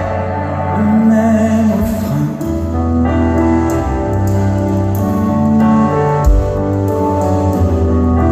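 Live band playing an instrumental passage of a song, with held chords that change every second or so.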